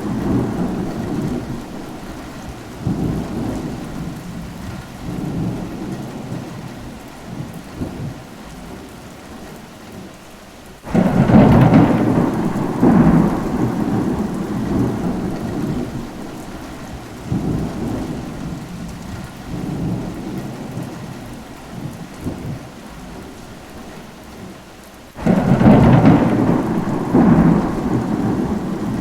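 Thunderstorm: steady rain with rolling thunder. A loud thunderclap starts suddenly about 11 seconds in, and another near the end, each rumbling on in waves and fading slowly under the rain.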